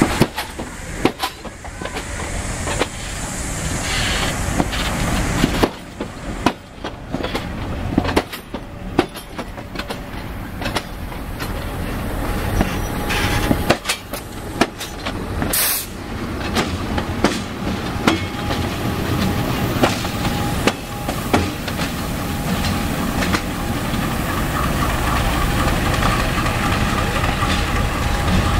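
Passenger train coaches rolling past close by, their wheels knocking over the rail joints, getting louder toward the end.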